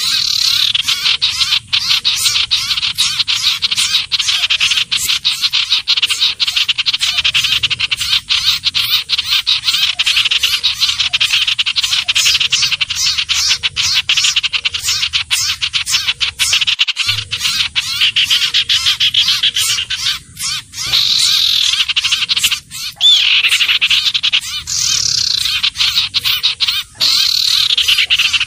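Bird-lure recording of a sirtu/cipoh (iora) calling: a loud, very rapid, unbroken chattering trill, broken by a few short pauses, with some downward-slurred notes in the last third.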